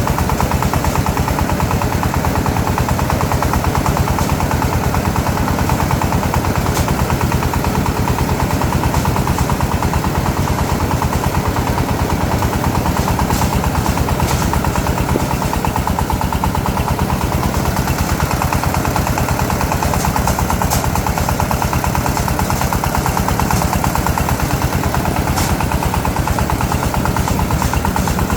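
Small engine running steadily at one constant speed, its fast regular firing pulses unbroken.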